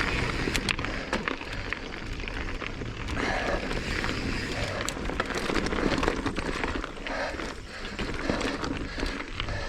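Mountain bike ridden uphill on a dirt singletrack trail: tyre noise on dirt and gravel with many small clicks and rattles from the bike, over a steady low rumble.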